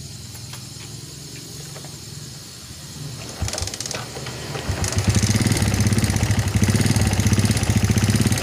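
Suzuki underbone motorcycle's single-cylinder engine cranked about three and a half seconds in, catching about five seconds in, then idling steadily. It now starts and runs because the flooding carburettor has been cleaned and a spark plug of the right thread length fitted.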